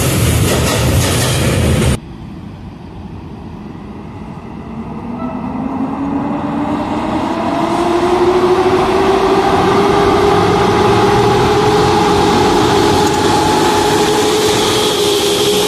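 Tank wagons of a freight train rolling past for about two seconds. Then an abrupt cut to an EP07 electric locomotive starting away with a passenger train: its traction-motor whine rises in pitch as it gathers speed, then holds steady.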